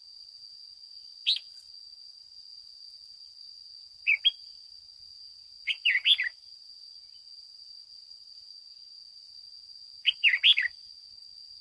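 Red-whiskered bulbul giving four short chirpy phrases, about one, four, six and ten seconds in, the later ones quick runs of two or three notes. A steady high whine sounds underneath.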